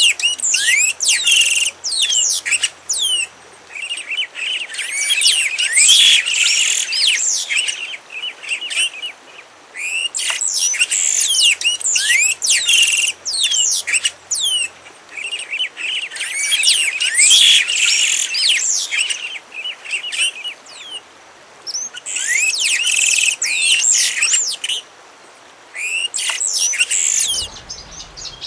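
A songbird singing: repeated phrases of rapid, sharply gliding high notes, each phrase lasting a few seconds, with short pauses between them.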